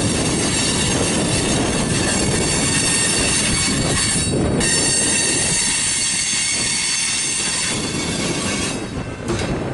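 Freight cars of a mixed freight train rolling past at close range: a steady rumble of steel wheels on the rails, with several high, steady wheel-squeal tones over it.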